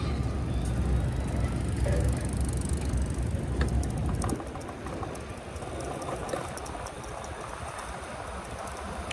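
Wind buffeting the microphone over road noise while riding a fat-tyre e-bike. The low rumble drops off sharply about four seconds in, leaving quieter road noise with light rattling clicks.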